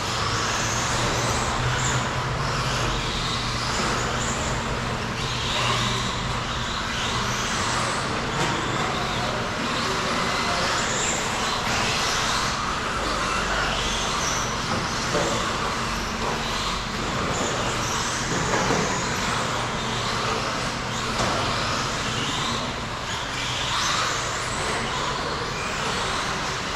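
Several RC stadium trucks racing on the track, their motors whining up and down in pitch again and again as they speed up and slow down through the corners. A steady low hum runs underneath.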